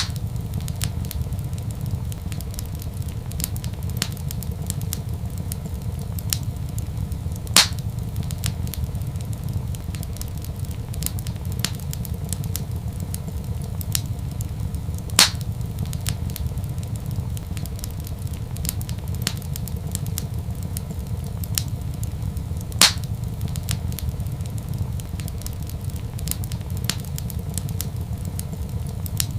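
Wood fire crackling over a steady low rumble, with many small ticks and three louder pops evenly spaced about seven and a half seconds apart.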